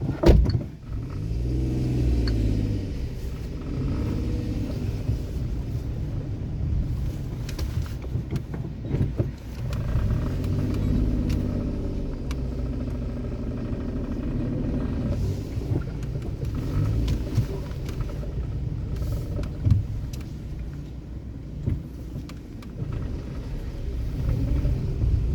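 A sharp thump right at the start, then a car's engine and road rumble as it drives, the engine note rising and falling with speed.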